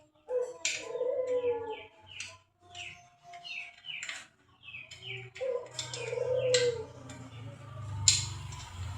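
Birds calling: many short, quick chirps throughout. Twice, near the start and again about halfway, a longer, lower call lasts about a second each time.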